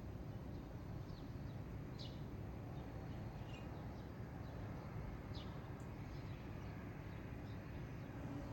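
Small birds chirping, with short high calls every second or so, over a steady low background rumble of outdoor ambience.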